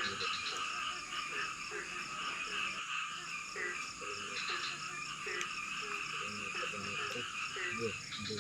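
A chorus of frogs calling: short repeated calls come about once or twice a second over a dense, continuous wall of higher-pitched calls.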